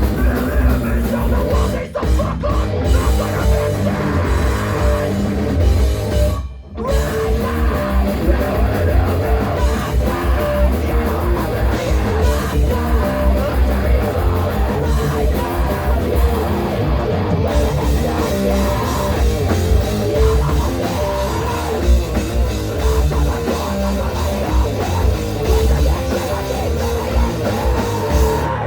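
Live loud rock band playing, with drums, distorted guitar and bass, with a brief full stop about six and a half seconds in before the band comes back in.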